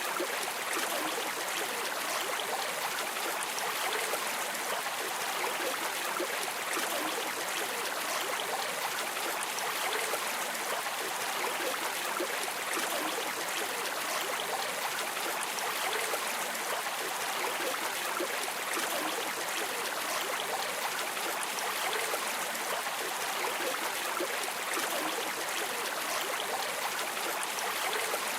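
River water streaming and splashing in a steady, even rush with small trickling flickers.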